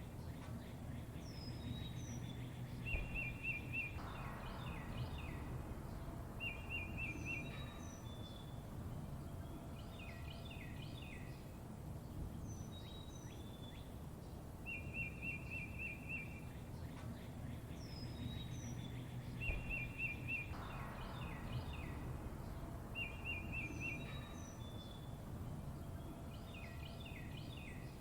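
Birds chirping and calling over a steady low background rumble: short rapid trills, quick falling high whistles and clusters of chirps. The same run of calls comes round again about every fifteen seconds, as in a looped recording.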